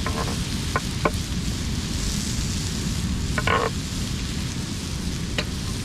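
Tuna searing in a pan with a steady sizzle over the low rush of surf, with a few short metallic clinks of cooking utensils, the longest about three and a half seconds in.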